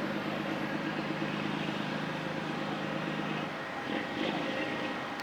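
A steady engine hum over a constant outdoor rumble; the hum cuts off about three and a half seconds in.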